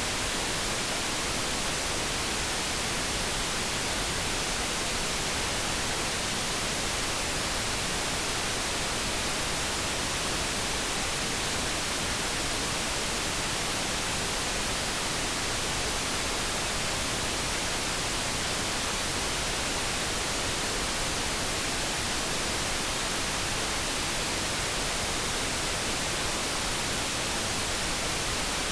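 Steady generated noise of the kind sold as brown noise for focus: an even, unchanging hiss with no breaks, clicks or tones.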